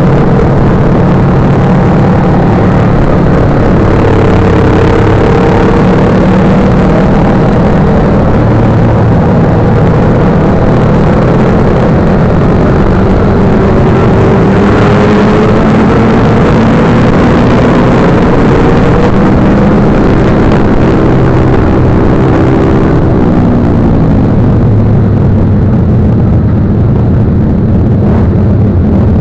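Motorcycle engine running while riding, loud and steady in level, its pitch rising and falling with the throttle and dropping away about three-quarters of the way through.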